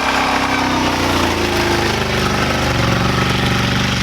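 Pickup truck engine running loudly, its pitch shifting as the revs change.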